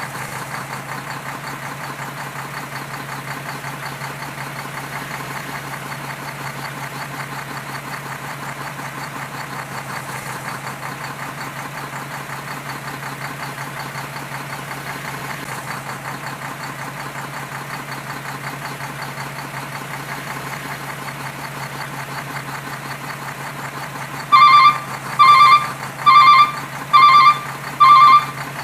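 A truck engine runs steadily at idle. Near the end a reversing alarm starts, beeping about six times at an even pace of roughly one beep a second.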